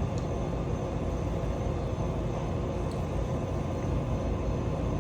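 Steady low rumbling background noise with no clear pitch, unchanging throughout, with a couple of faint ticks.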